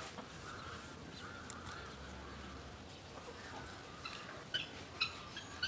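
A free-ranging flock of chickens and guinea fowl calling faintly while foraging. Several sharper, short calls come near the end.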